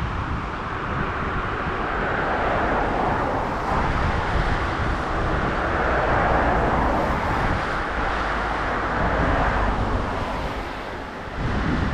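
Touring motorcycle on the move: steady wind rush over the microphone with engine and road noise underneath, easing briefly near the end.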